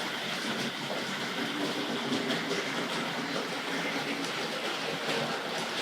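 00-gauge electric model trains running on the layout's track: a steady small-motor hum with a continuous rattle and clicking of wheels over the rails.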